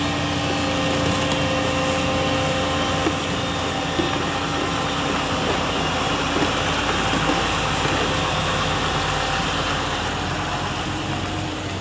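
Heavy diesel engine of construction machinery running steadily, with a couple of short metallic knocks about three and four seconds in.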